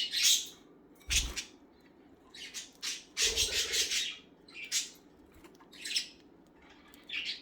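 Pet budgerigars squawking and chirping: short, harsh, high-pitched calls about a second apart, with a longer stretch of chatter about three to four seconds in.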